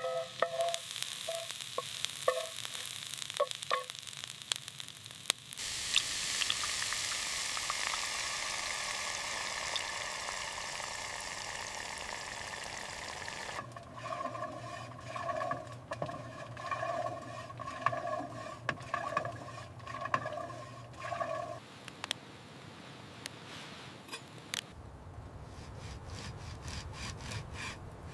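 Campfire cooking in a pan. It opens with a few clicks and clinks of utensils, then food sizzles steadily in the hot pan for several seconds, followed by rhythmic scraping as the food is stirred. Quieter low sounds close it out.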